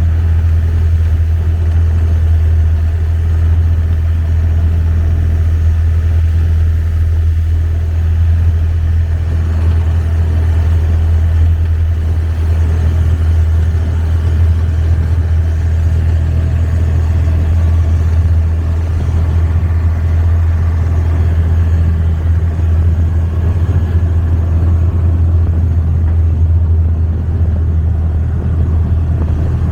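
Long-tail boat's engine running steadily under way, a deep, even drone.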